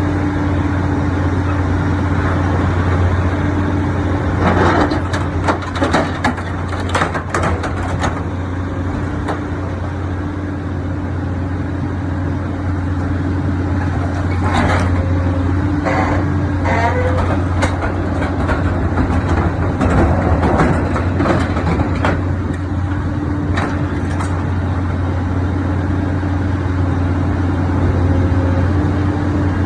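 Sierra T550 logger baler shear running with a steady low hum, broken three times by bursts of sharp cracks and creaks as it crushes and shears a steel truck frame.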